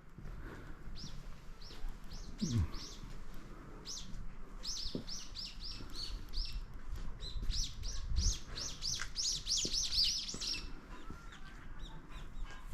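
Small birds chirping: a long run of short, high, down-slurred chirps that come quicker and more densely toward the end, then stop about two seconds before the end.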